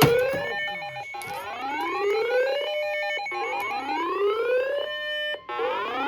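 Weather alert radio sounding its siren alarm for a blizzard warning: four rising wails, each climbing in pitch and then holding briefly before the next begins.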